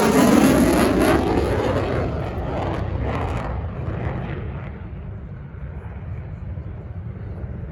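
F-35C Lightning II fighter's single F135 afterburning turbofan passing close by, a loud jet rush that fades steadily as the aircraft moves away, its higher hiss dying out about halfway through.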